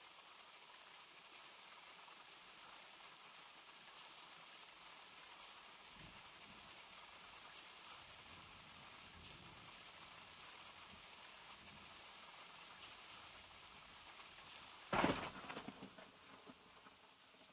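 Steady rain falling, with a sudden loud clap of thunder near the end that dies away over about two seconds.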